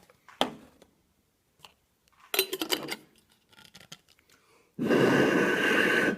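Glass jars clinking and rattling as they are handled, then liquid poured into a glass jar in one steady stream for about a second and a half near the end.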